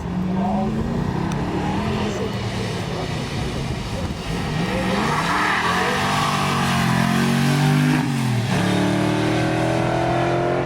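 Rally car engine revving hard as the car drives a special stage, its pitch climbing and dropping with each gear change, with a clear shift about eight and a half seconds in. Tyre and road noise rises in the middle.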